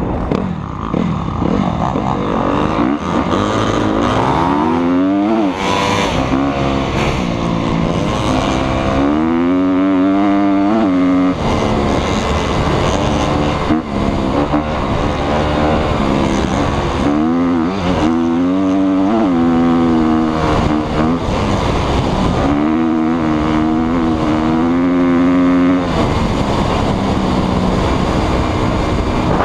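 Motocross motorcycle engine revving hard, its pitch climbing and dropping again and again as the throttle is opened and closed.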